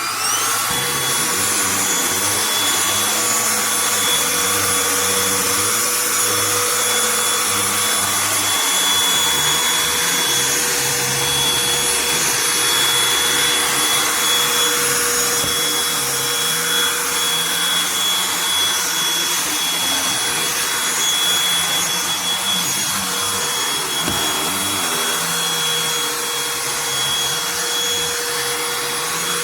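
Cordless handheld vacuum running steadily while cleaning carpeted stairs, a constant whine over its motor noise.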